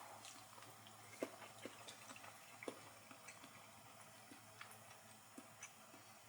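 Near silence with a faint hiss and a scattering of small, faint clicks and ticks at irregular intervals.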